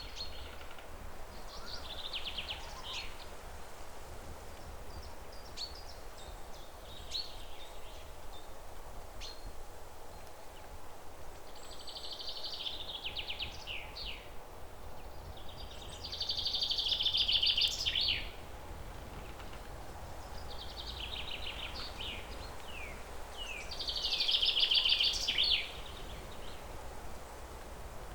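Songbird singing repeated trilled phrases with quick down-slurred notes, loudest twice in the second half, over a low steady rumble.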